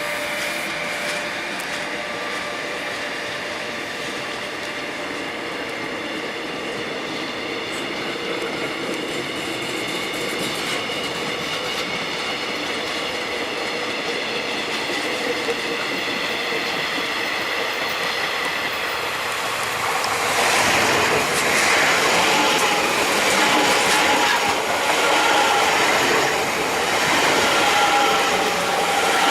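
A train at a station platform: a steady whine of several tones, then about twenty seconds in it gets louder with a rushing, clattering noise and wavering wheel squeal as the cars come by.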